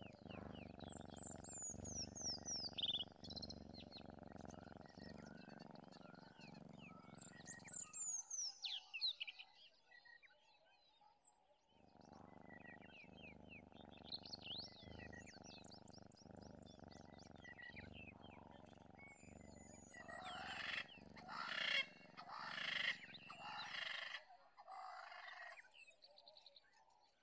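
Faint wild birdsong: high, quickly falling whistles and chirps, with a run of louder calls a few seconds before the end. Under them is a low, steady rumble that drops out for a few seconds partway through.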